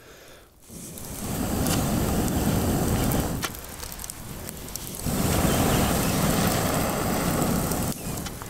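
Two long blasts of breath blown through a homemade blowpipe made from a cut-down telescopic radio antenna into campfire embers. Each blast is a rushing sound, the first about three and a half seconds long, the second about three seconds, with a few crackles from the fire.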